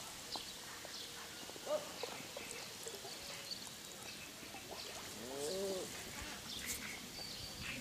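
Birds calling outdoors: short, high chirps scattered throughout, with a lower call that rises and falls about five seconds in.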